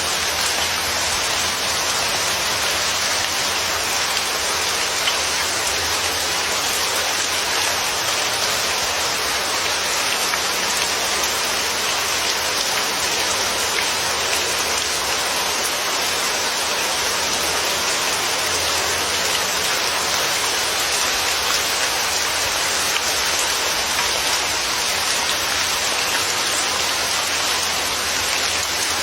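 Steady heavy rain falling on a surface, an even hiss of drops with no breaks or changes.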